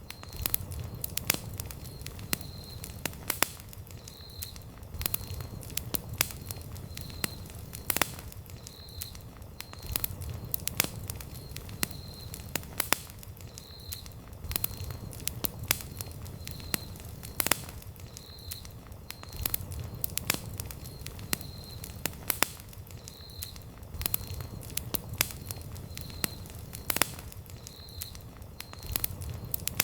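Wood campfire burning: sharp crackles and pops at irregular moments over a low, steady rumble of flame. A faint high-pitched chirp repeats about once a second throughout.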